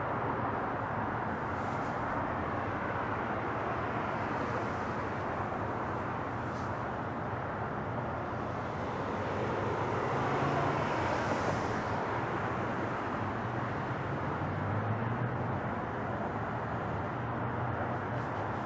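Steady rumble and rush of the Boeing 777's jet engines, swelling slightly about ten seconds in.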